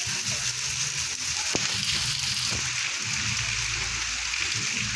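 Rain falling steadily, an even hiss, with a single light tap about a second and a half in.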